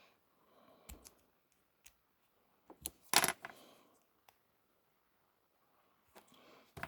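Small metal tools clicking and scraping against a die-cast toy truck while a stubborn axle is worked loose, with a louder short clatter about three seconds in.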